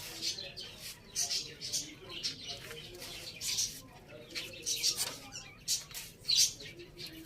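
Chickens, a rooster and a hen, feeding: short, sharp rustling sounds come one or two a second, over soft low clucking.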